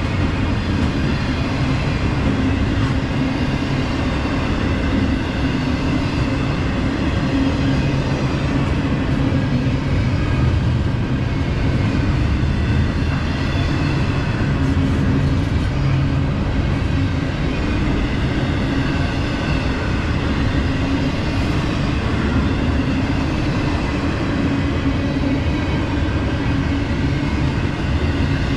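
CSX intermodal freight train passing steadily, a continuous rumble of wheels on rail.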